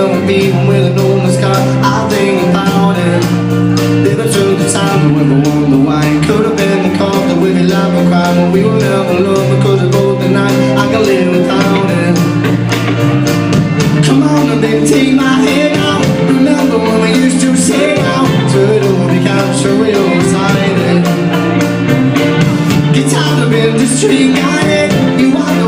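Live rock band playing an instrumental stretch of a song: guitars over a stepping bass line and drums keeping a steady beat.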